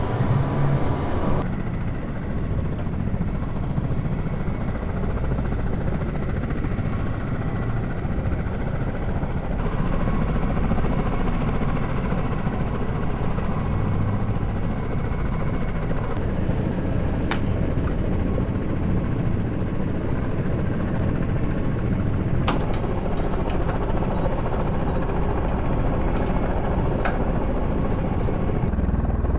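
Military helicopter running, a steady rotor and turbine noise with heavy low rumble. Its character changes abruptly a few times, and a few sharp clicks stand out in the second half.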